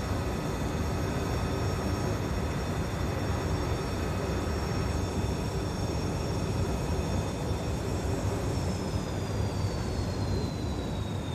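An engine running on a test run: a steady low rumble with several high-pitched whines over it. About eight and a half seconds in, one of the whines begins falling steadily in pitch as the engine slows.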